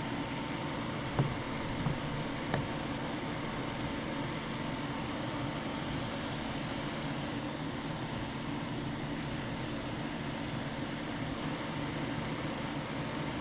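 Steady background hum and hiss, like a fan or air conditioner running, with a few light clicks and taps from work on the bench about a second in and again near the end.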